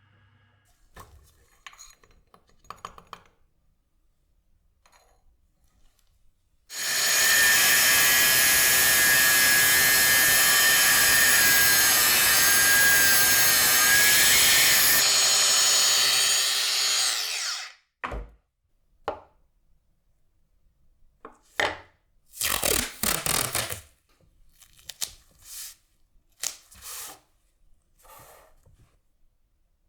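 A power tool runs steadily with a whine for about ten seconds, then winds down. Before it and after it come a few short workshop handling noises.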